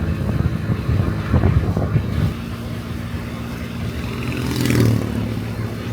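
Honda Dio Cesta AF68 50cc scooter's small four-stroke single running steadily on the road, heard from the rider, with a brief louder swell about four and a half seconds in.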